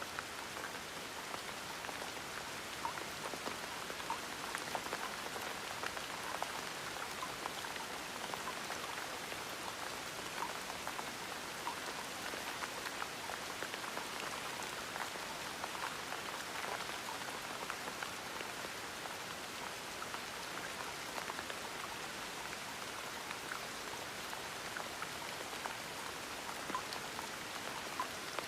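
Gentle, steady rain, with many small drop ticks scattered through an even hiss.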